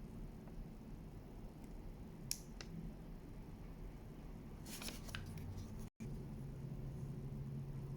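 A few small, sharp clicks and light handling noises over a faint, steady low hum. There is a cluster of clicks a little before the middle. The hum breaks off for an instant and comes back slightly stronger.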